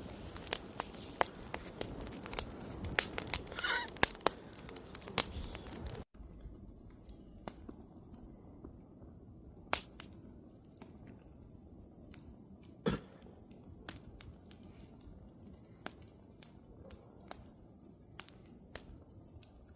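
Wood fire crackling and popping, with dense sharp snaps at first. After an abrupt drop about six seconds in, it goes on quieter with scattered pops. A short wavering whistle sounds about four seconds in.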